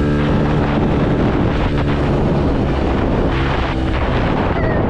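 110 cc dirt bike engine running while being ridden, its pitch shifting with the throttle, under heavy wind noise on the microphone.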